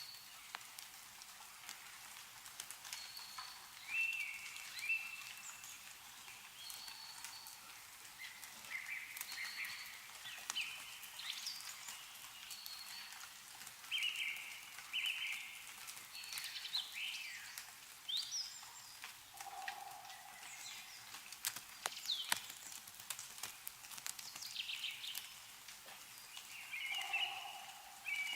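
Small birds chirping and calling over and over in short notes, mixed with scattered sharp drips of meltwater falling from snow-covered trees.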